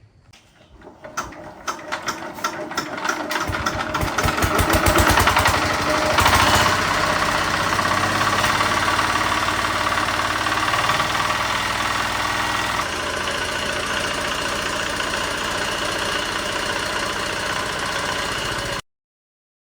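Diesel tiller engine being turned over in slow, separate strokes that quickly speed up, catching a few seconds in and revving up, then running steadily. The level eases slightly about two-thirds of the way through, and the sound cuts off abruptly near the end. This is the previously non-starting engine starting and running after repair.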